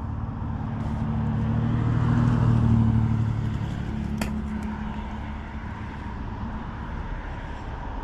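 A motor vehicle engine passing: a low drone swells to its loudest about two to three seconds in, then fades. There is a single sharp click about four seconds in.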